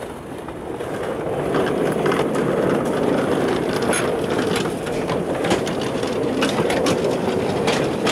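Miniature railway coaches on 7¼-inch gauge track rolling along the rails, a steady rumble of wheels on rail that builds about a second in, with scattered clicks.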